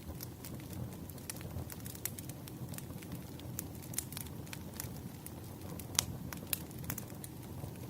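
Wood fire burning, with a steady low rumble and frequent irregular sharp crackles and pops, one louder pop about six seconds in.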